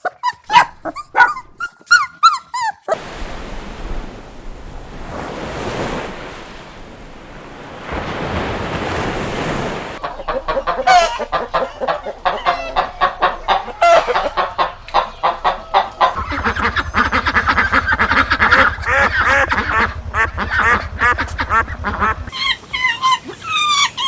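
Domestic fowl calling: a flock giving many short, repeated honking calls that overlap densely for a while. Between the bursts of calling comes a few seconds of rushing noise with no calls.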